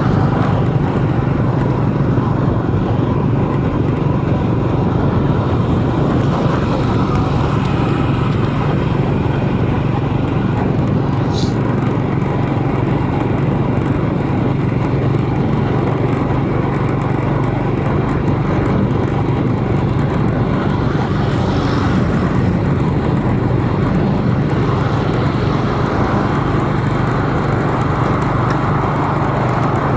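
Vehicle driving through city traffic: a steady low engine and road hum with traffic noise, and a brief high squeak about eleven seconds in.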